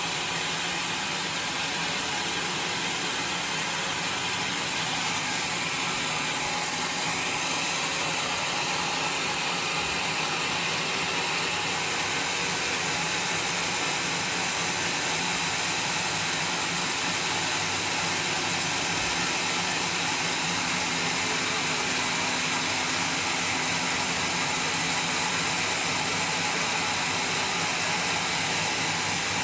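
Homemade sawmill running steadily, a continuous even hiss of the saw working through the log.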